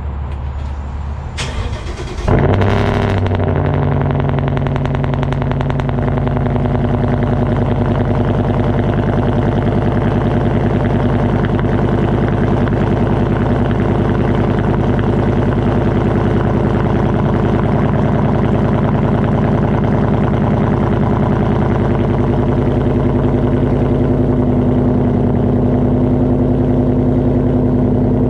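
A 2015 Ford Mustang GT's 5.0-litre V8 starting from cold: the starter cranks briefly, the engine catches about two seconds in with a flare of revs, then settles into a steady idle.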